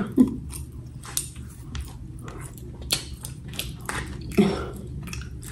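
A person chewing food close to the microphone: a run of short, sharp mouth clicks and smacks, with a brief hum from the throat about four seconds in.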